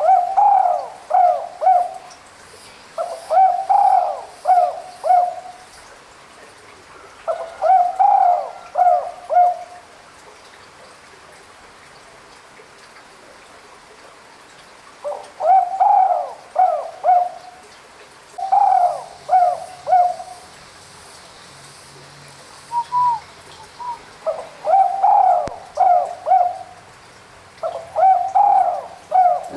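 Spotted dove cooing: repeated phrases of three or four low coos, about seven phrases, with a pause of several seconds in the middle.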